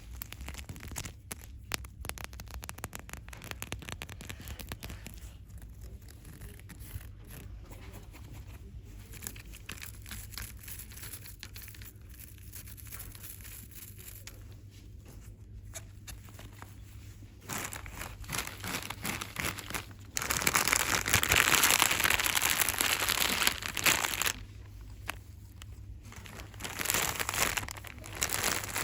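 Packaging crinkled and rustled by hand: soft, dense crackling at first, growing louder about two-thirds of the way in, with the loudest stretch soon after and another louder burst near the end.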